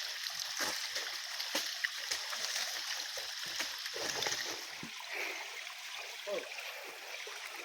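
Steady rush of flowing water, with scattered light clicks and small splashes over it.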